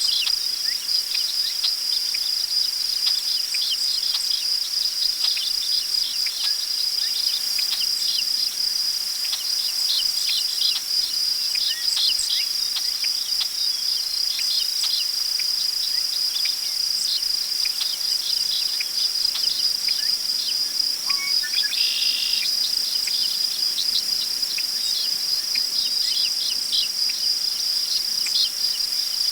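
Crickets trilling in a steady high chorus, with scattered short bird chirps over it and one brief bird call about twenty-two seconds in.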